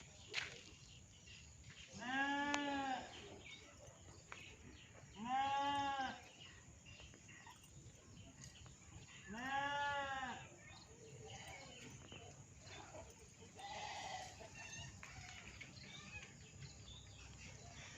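Bleating livestock: three drawn-out bleats, each about a second long and rising then falling in pitch, a few seconds apart, with a fainter call near the end.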